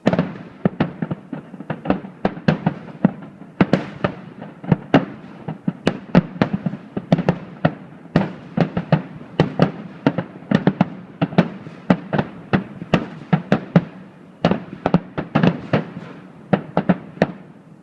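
Fireworks shells bursting in a rapid, dense barrage of sharp bangs, about three a second, which stops abruptly near the end.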